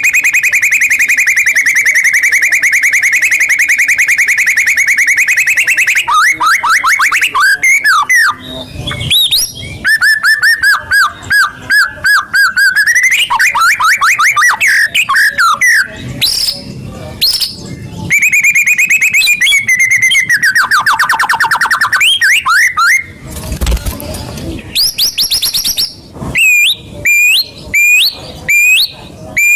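White-rumped shama (murai batu) song played as a lure: loud rapid trills and runs of sweeping whistled notes. A long steady trill opens it, a second trill later falls in pitch, and short upswept chirps come near the end.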